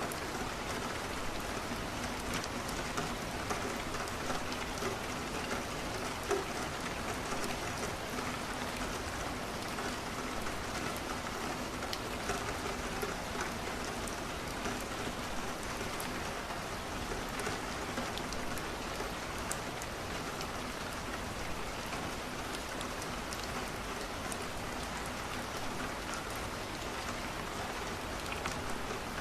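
Steady rain: an even hiss with many small ticks scattered through it.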